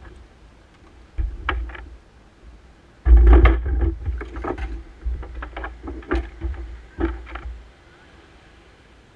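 Kayak handling: irregular knocks and clatter with low thumps, densest and loudest about three seconds in, then a few single knocks.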